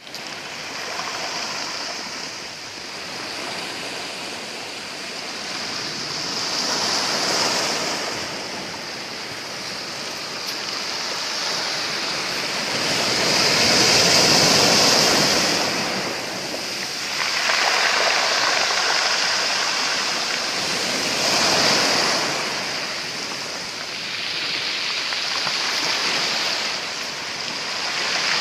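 Sea waves breaking and washing over a beach of black stones, the surf swelling and ebbing in surges every few seconds.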